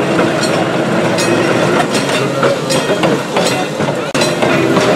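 Electric trolley car running along the track, with a steady rumble and repeated clicks of its wheels over the rail joints.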